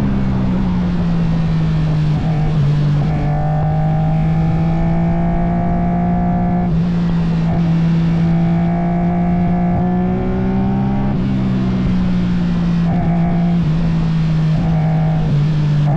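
Legend race car's Yamaha four-cylinder engine running hard and steady, its pitch held with slow slight rises and a few small shifts in note, about three, seven and eleven seconds in.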